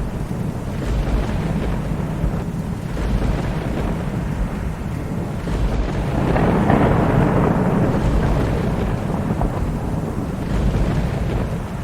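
Thunderstorm: steady rain with continuous low rumbling thunder, swelling into a louder roll of thunder about six seconds in.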